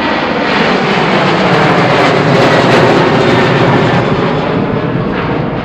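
Aircraft engines passing close by, a loud rushing roar that swells to a peak about halfway through and then fades away.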